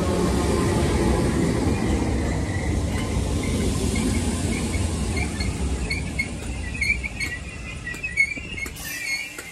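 Merseyrail electric train running past a station platform, a steady low rumble that fades as it goes. In the second half the wheels give repeated short high squeaks, with a few sharp clicks near the end.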